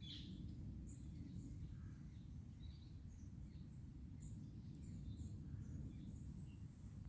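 Faint woodland ambience: several birds giving short, scattered chirps and calls over a steady low rumble.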